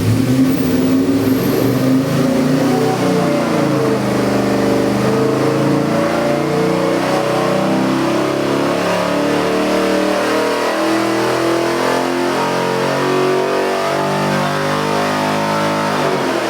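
Fuel-injected Chevy LS-based 441 cubic inch stroker V8 running on an engine dyno, its revs stepping up and down so that the engine note shifts in pitch.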